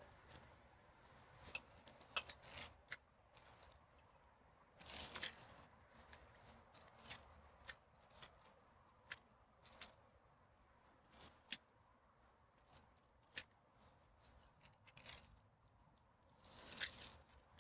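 Irregular crackles and rustles of litter being picked up and handled, with a longer rustle about five seconds in and another near the end.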